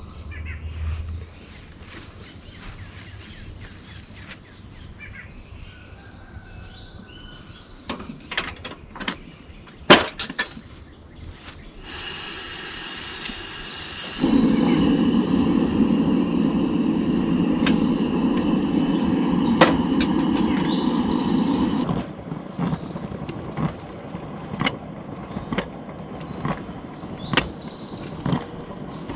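Small birds chirping over a few sharp clicks and knocks, then a loud, steady rushing noise for about eight seconds that cuts off suddenly.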